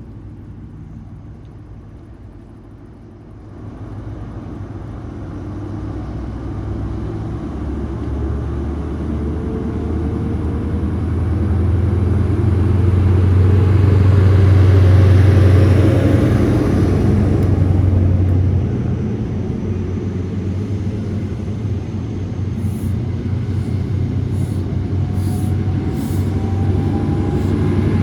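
A diesel train's engine running as it passes, a steady low drone that builds to its loudest about halfway, eases off, then grows again near the end.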